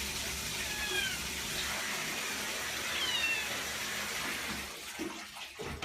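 Cat meowing twice, short high calls that fall in pitch, over a steady hiss.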